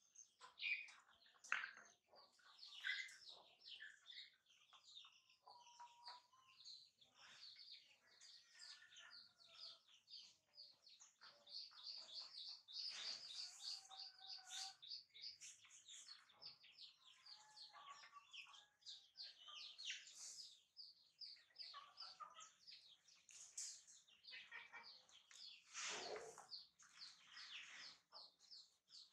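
Faint chirping of small birds: many short, quick chirps in runs, with a few lower whistled notes between them.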